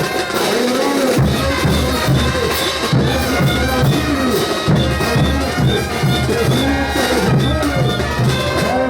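Bolivian brass band playing ch'uta music: brass carries the tune over a steady bass line, with percussion keeping the beat.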